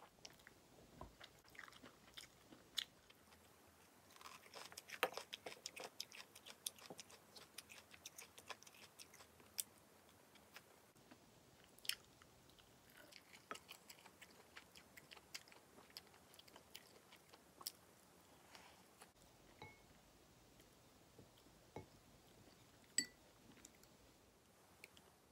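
Close-up chewing and crunching of food, in runs of quick crisp crackles, with a few sharp clicks of wooden utensils against a ceramic bowl.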